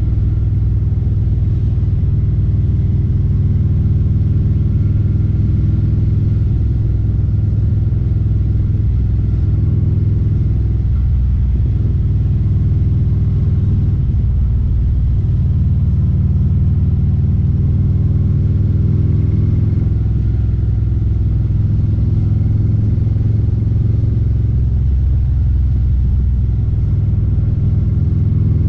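Harley-Davidson Street Glide CVO's Milwaukee-Eight 117 V-twin running steady and deep through Khrome Werks Aggressor headers and slip-on mufflers.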